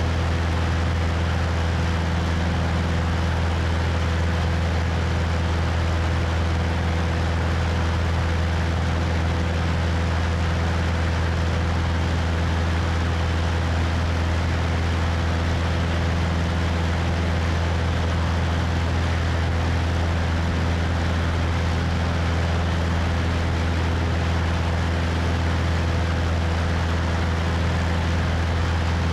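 Cessna 172's piston engine and propeller running steadily in flight, a constant low drone with wind rushing over the wing-mounted microphone.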